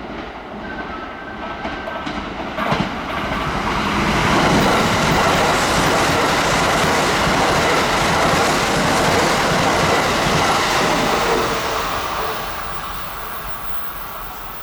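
Kintetsu train passing through a station at speed without stopping, with wheels clattering over the rails. It grows loud about three seconds in, stays loud for several seconds, then fades as it runs away.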